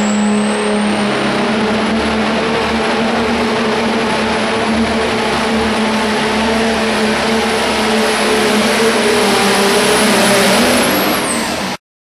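Pro stock diesel pickup pulling under full power: a steady engine drone with a high turbocharger whistle that climbs in pitch over the first couple of seconds, holds, then drops sharply near the end before the sound cuts off abruptly.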